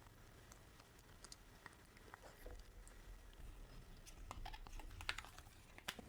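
Faint eating sounds from a McDonald's meal: scattered small clicks and crackles, busier and a little louder about four to six seconds in.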